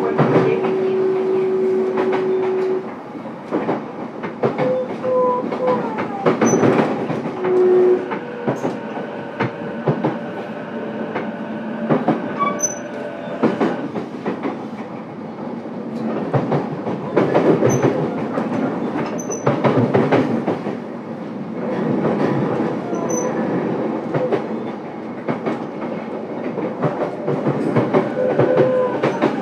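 Running sound inside the motor car of an E233-8000 series electric train: wheels rumbling and clacking over rail joints, with many sharp clicks. A steady hum in the first three seconds stops, and after that short whines and squeals come and go.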